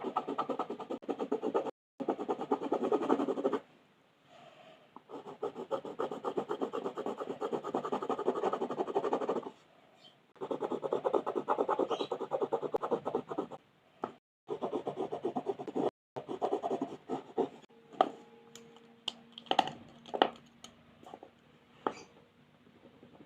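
Coloring strokes on paper: fast back-and-forth scratching in bursts of a few seconds. Near the end the strokes give way to a few scattered light taps and clicks.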